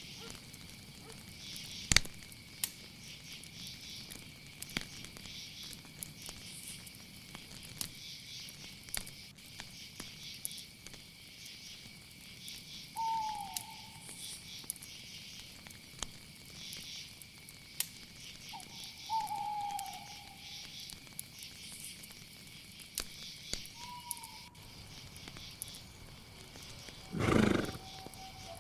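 Night insect chorus, crickets chirring in a steady high shrill with a pulsing layer above it. Three short falling calls from some other animal break in, and a brief loud rushing sound comes near the end.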